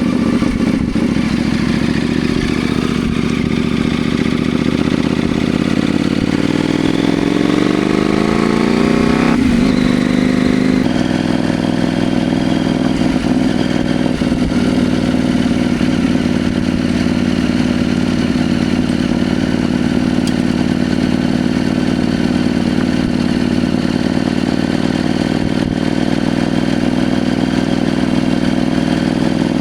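CFMoto Ibex 800T motorcycle's parallel-twin engine heard while riding. It pulls up in revs, shifts up about eleven seconds in, then runs steady at cruising speed.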